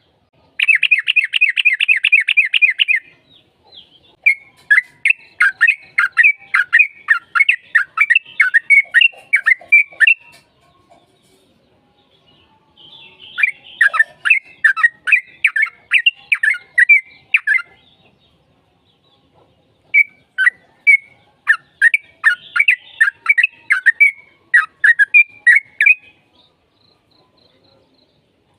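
Yellow-vented bulbul (trucukan) singing in full, aggressive song: runs of quick, bubbly chattering notes in phrases a few seconds long, separated by short pauses, with a fast trill about a second in.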